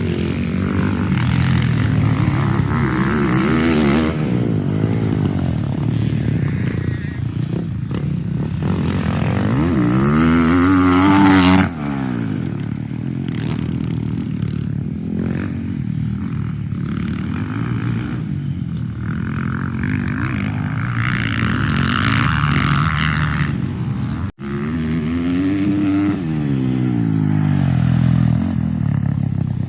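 Four-stroke 450 motocross bike engine being ridden hard, its pitch rising and falling over and over as the throttle opens and shuts. The sound breaks off abruptly twice, about a third of the way in and again near two-thirds.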